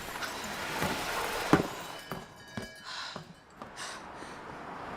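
Film sound effects: a sharp knock about a second and a half in, then a few lighter clicks and knocks over a low background.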